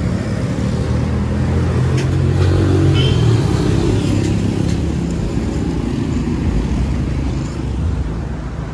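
Road traffic: a motor vehicle's engine running as it passes on the street, loudest about three seconds in, then easing off.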